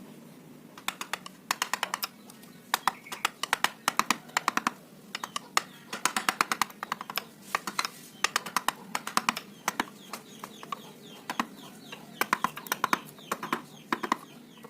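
Hand carving chisel being tapped with a mallet into teak wood, in quick clusters of sharp, light taps starting about a second in.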